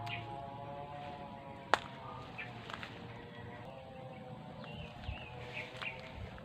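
Birds chirping over a steady background drone, with one sharp snap a little under two seconds in and footsteps through undergrowth near the end.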